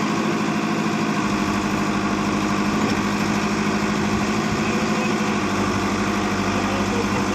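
Tractor diesel engine running steadily at a constant speed, with no revving.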